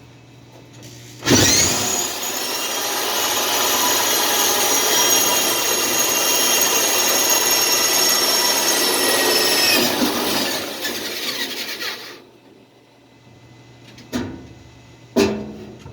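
Power drill boring a mounting hole for a bucket seat: it starts suddenly about a second in, runs steadily for about nine seconds and winds down. Two short knocks follow near the end.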